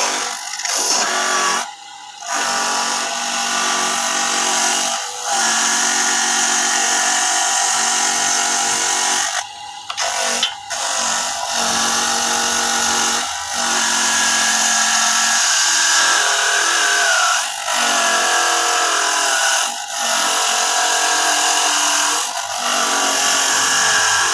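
Electric coconut grating machine running as it grates coconut, a steady motor whine with brief drop-outs about two seconds in and twice around ten seconds in.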